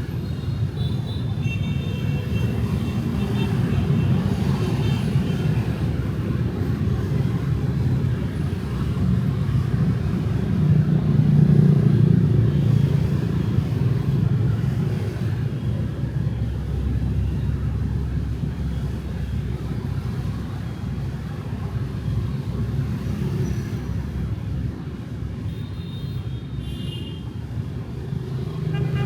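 Street traffic of motorbikes and cars, a continuous low rumble of passing engines and tyres that swells loudest about twelve seconds in. Brief high-pitched tones come through near the start and again near the end.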